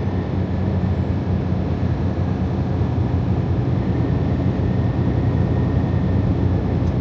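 Freightliner Cascadia semi truck cruising at highway speed, heard from inside the cab: a steady low engine drone with tyre and road noise.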